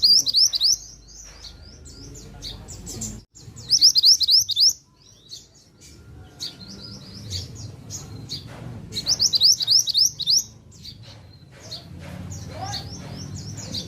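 A caged songbird, the one Indonesian bird-keepers call a mantenan, singing in loud bursts of rapid, high, sweeping chirps, three times, with scattered single notes between them.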